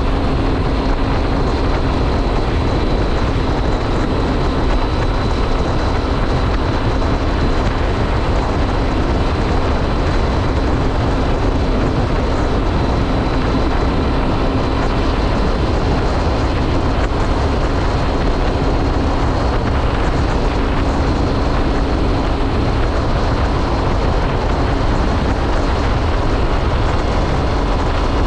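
2006 Triumph Speed Triple's 1050 cc inline-three engine running at a steady cruise under way, with wind rushing over the camera microphone. The engine note holds steady throughout.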